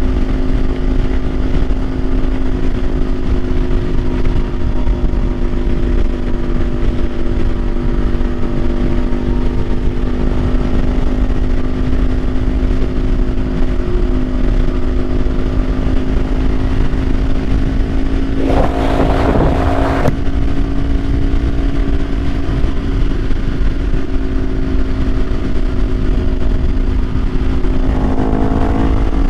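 Kawasaki Ninja 500's parallel-twin engine running at a steady cruise, with heavy wind rumble on the microphone. About 19 s in there is a brief louder noise lasting a second or two, and near the end the engine pitch starts to rise as it accelerates.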